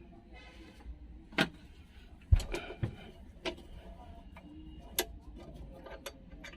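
Scattered sharp clicks and knocks of tools and parts being handled during work on an engine, about five clear ones, the loudest with a dull thud about two and a half seconds in.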